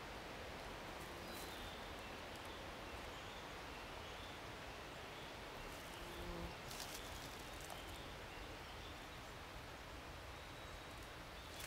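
Steady hiss of light rain in woodland, with a few scattered sharp ticks of drips or rustling.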